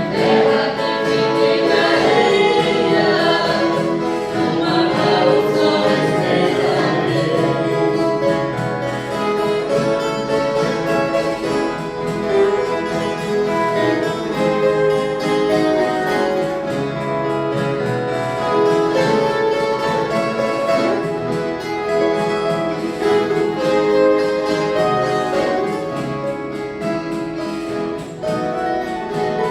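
Ensemble of violas caipiras (Brazilian ten-string folk guitars) playing a Christmas song, plucked strings with voices singing along.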